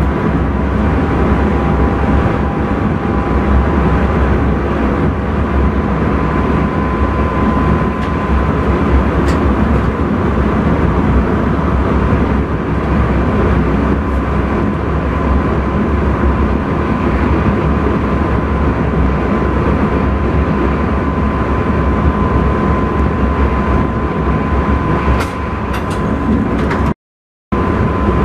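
Running noise inside the driver's cab of an intercity train travelling at speed: a steady rumble and rush with a thin steady high tone over it. The sound cuts out completely for about half a second near the end.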